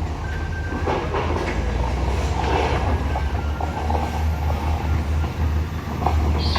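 Heavy vehicle's diesel engine running with a steady low rumble, with scattered clanks and rattles.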